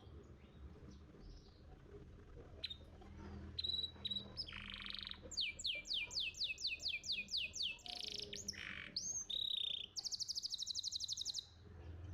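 Domestic canary singing a tutor song: after a quiet first couple of seconds, a phrase of chirps and buzzy notes, a run of quick falling whistles about five a second, then a very fast trill lasting over a second.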